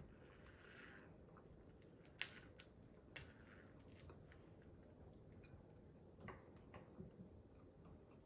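Faint crunching clicks from eating whole cooked prawns in their shells, a few scattered cracks and chews over near silence, the sharpest about two seconds in.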